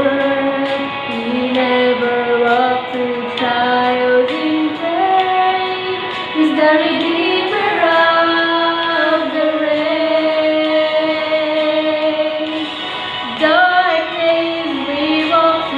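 Two women singing a worship song as a duet over instrumental backing, holding long, slowly gliding notes.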